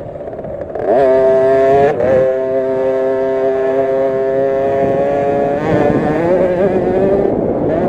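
50cc two-stroke minibike engine at high revs: it picks up sharply about a second in, holds a steady high pitch for a few seconds, then rises and falls as the throttle is worked.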